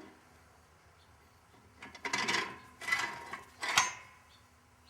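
Steel push bar of a Ringmaster tire-mounting tool being set in place on a loader wheel: metal scraping and clanking three times about two seconds in, the last clank the sharpest, each with a brief metallic ring.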